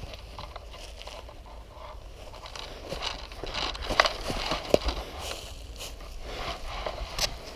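Rustling and scraping of someone moving through brush and leaves, with a few sharp snaps or clicks: two about four seconds in and one near the end.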